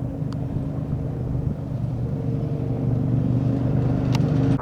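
A vehicle engine running steadily with a low, even hum that grows slightly louder toward the end, and a brief click near the start and another near the end.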